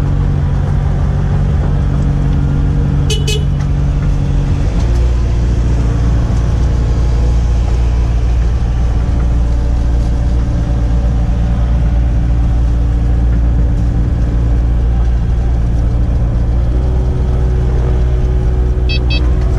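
Kubota 057-5 excavator's diesel engine running steadily; about five seconds in its note drops and deepens and stays there. A short high chirp sounds about three seconds in and a few more near the end.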